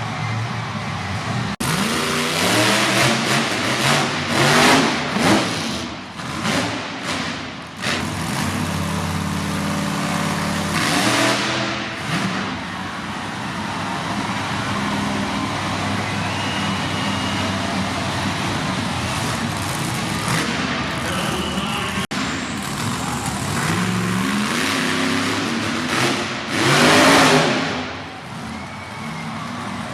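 Monster truck engine running and revving hard, its pitch climbing and falling, with several louder surges of noise.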